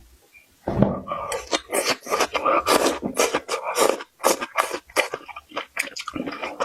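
Close-miked chewing and crunching of crisp food in the mouth, starting about a second in and going on in quick, sharp crunches several times a second.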